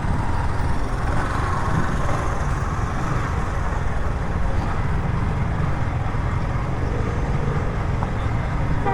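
Steady din of motorcycle engines and traffic, with voices mixed in.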